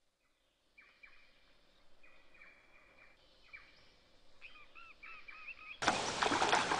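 Faint birdsong: a few short, repeated whistled notes, then a run of quick rising-and-falling chirps. Near the end a much louder rushing noise cuts in suddenly.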